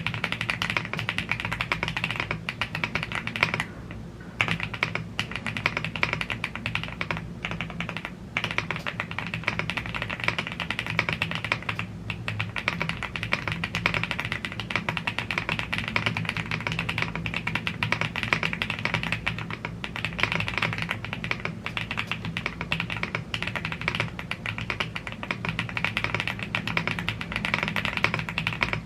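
Continuous fast typing on a YUNZII AL75 gasket-mounted aluminium keyboard with Blue Grey tactile switches and PBT keycaps: a dense stream of key clacks with a few short pauses.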